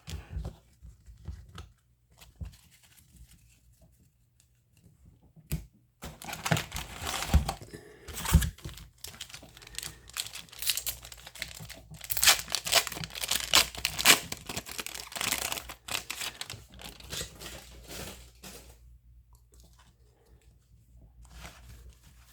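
A baseball card pack's wrapper being torn open and crumpled, crinkling loudly for about ten seconds through the middle, with lighter rustling of handled cards before and after.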